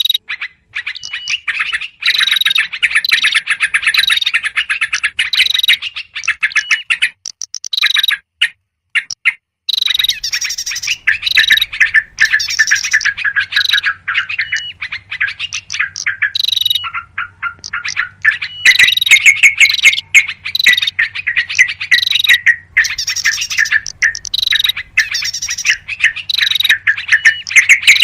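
Yellow-vented bulbuls calling noisily in a dense run of quick chirps and chattering notes. The calls thin out briefly about seven seconds in, then resume as thick as before.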